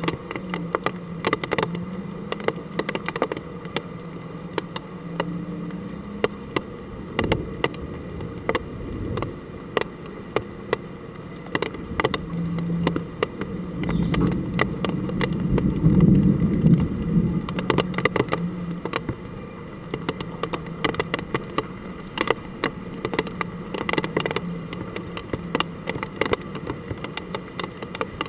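Typhoon rain and wind: a steady hiss of hard rain, with frequent sharp, irregular drops and drips striking a hard surface and a low hum underneath. A louder surge, likely a gust, swells and fades around the middle.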